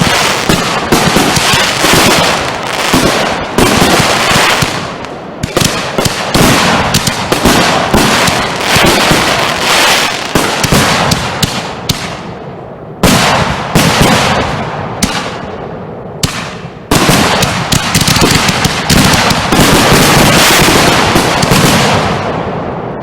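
Consumer fireworks going off in a dense barrage: many cracks and bangs overlapping almost without pause, with sudden loud fresh volleys about 13 and 17 seconds in, thinning out near the end.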